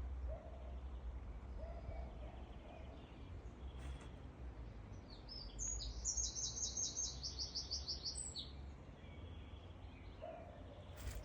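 A songbird singing a fast trill of repeated high notes, about five a second, for some three seconds midway, with a few fainter lower calls near the start and end, over a steady low rumble.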